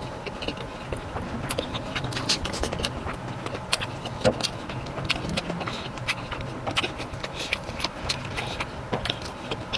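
Close-up eating sounds of a person chewing beef and pork calderita stew: irregular wet clicks and smacks of the mouth.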